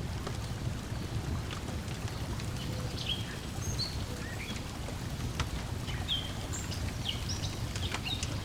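Layered lakeside ambience: a steady low wash of water lapping, sparse crackles and pops from a wood fire, and short bird chirps scattered from a few seconds in.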